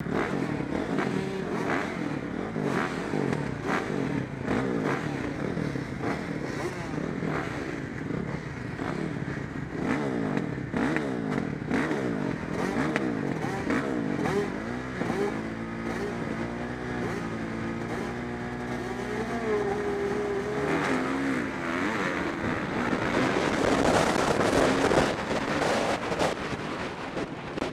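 Several motocross bike engines revving together, heard from a rider's helmet camera, their pitch swinging up and down. About halfway through the revs are held steady for several seconds, then the engines get louder and harsher near the end.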